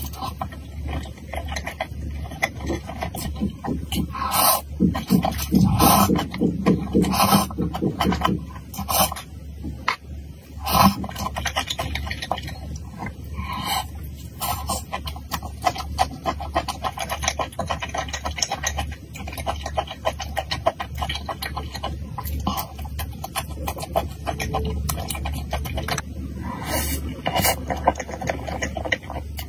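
Close-miked mukbang eating: wet chewing, smacking and slurping, with sharp crunchy bites scattered throughout as skewered fried food such as fried long beans is eaten.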